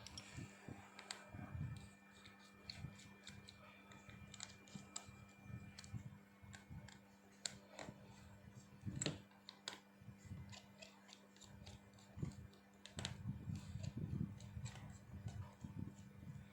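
Irregular light clicks and taps from handling a small plastic mobile phone, with a few sharper clicks about nine seconds in and a busier patch near the end, over a steady low hum.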